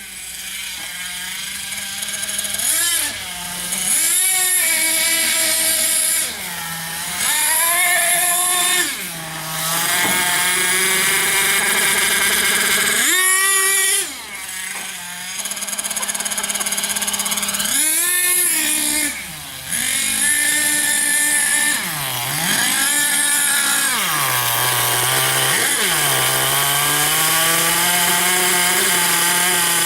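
Small nitro (glow-fuel) engine of a Kyosho MTA-4 radio-controlled monster truck running at high revs, its pitch repeatedly rising and falling as the throttle is opened and let off, with several brief dips where it drops back for a moment.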